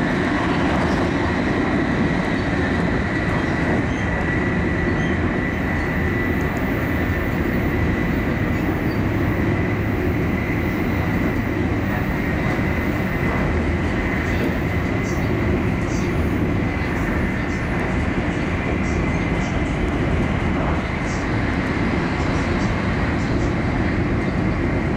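Cabin noise inside an E5 series Shinkansen running at high speed, close to full speed: a steady low rumble with a faint high whine. A few faint ticks come in during the second half.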